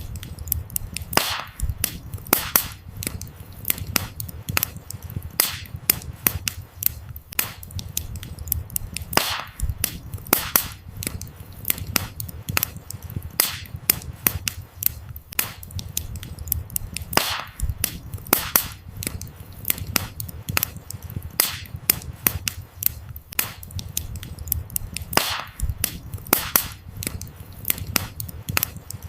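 Wood fire burning: dense crackling with frequent sharp pops and snaps from the burning firewood over a low steady rumble of the flames.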